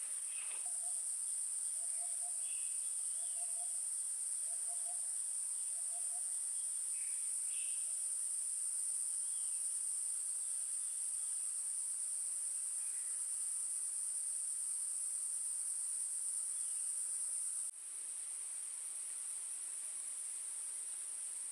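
Steady, high-pitched chorus of forest insects, crickets or cicadas, shrilling without a break. In the first six seconds an unseen animal gives a row of short, low calls about once a second, with a few faint chirps higher up.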